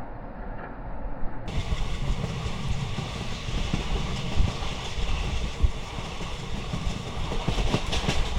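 Moving passenger train heard from inside a coach: a steady rumble of the wheels on the rails with irregular knocks and rattles.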